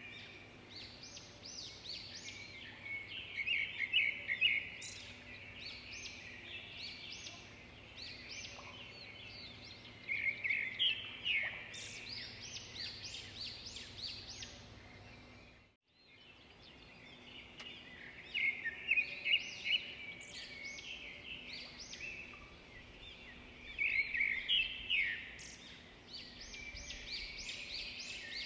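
Small birds chirping in quick runs of high notes, coming in bursts over a faint steady background, with a brief dropout about halfway through.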